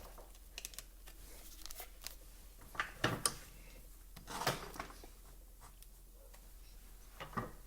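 Scattered light clicks and taps of small metal and plastic parts and hand tools being handled during whipper snipper repair work, with a few louder clattering knocks about three seconds in, around four and a half seconds, and near the end.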